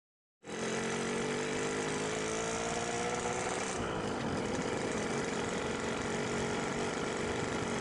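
Two-stroke motorcycle engine with an aftermarket Boban C33 exhaust, running while riding. It comes in about half a second in, its note climbing slowly, then breaking up and dropping a little just over halfway through.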